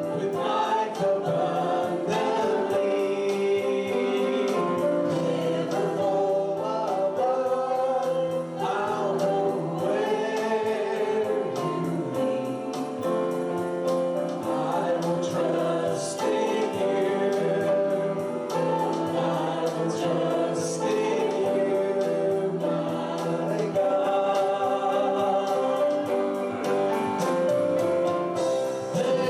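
Gospel music: a choir singing a worship song, with long held notes.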